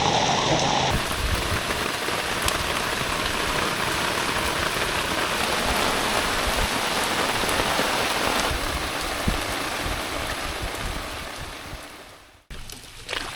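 Heavy rain falling steadily as a dense, even hiss of drops. It fades away near the end and is followed by a much quieter passage with a couple of splashes.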